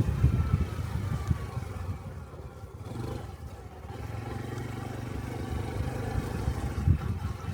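Honda Cub 125cc single-cylinder motorcycle engine running under way, easing off about two seconds in and then settling to a steady idle-like note, with a brief thump near the end.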